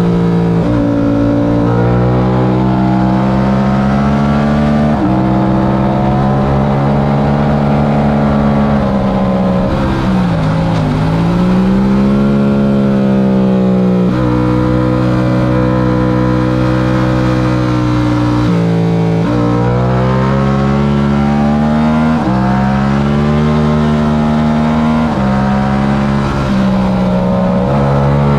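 Yamaha R7's 689 cc parallel-twin engine run hard on track, its pitch climbing under throttle and dropping sharply at each of several upshifts. About ten seconds in the revs fall and rise again smoothly as the throttle is rolled off and picked back up.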